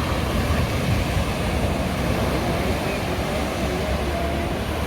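Steady wash of sea waves with a low rumble underneath, and a few faint short tones near the end.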